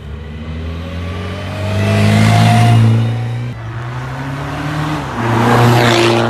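A car engine accelerating hard, its pitch climbing, then dropping sharply about three and a half seconds in as it shifts up and climbing again under full throttle.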